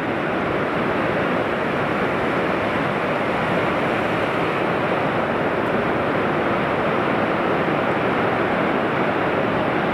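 Pacific Ocean surf breaking: a loud, steady rush of waves with no let-up.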